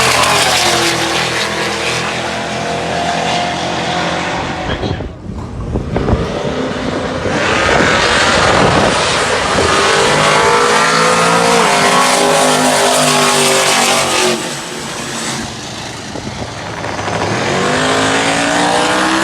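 Drag-racing street cars running at full throttle down the strip, their engines revving hard, with the pitch climbing and falling as they accelerate and pass. Engine noise drops briefly about five seconds in, then comes back loud, and another rising rev comes near the end.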